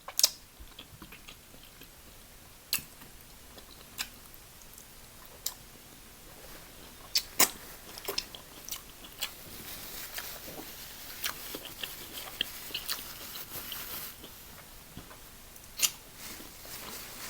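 A person eating close to the microphone: chewing and biting, with scattered sharp clicks and a faint hiss in the middle.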